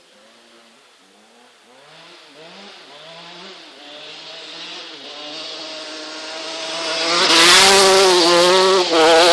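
Motocross motorcycle engine accelerating through the gears as it approaches, its pitch climbing and dropping back with each upshift. From about seven seconds in it runs loud and high at full throttle as it passes close, with a brief dip near the end.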